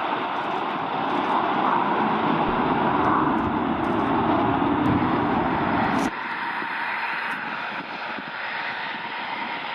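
Military jet aircraft taking off, a loud, steady spread of engine noise that drops sharply in level about six seconds in and carries on more faintly.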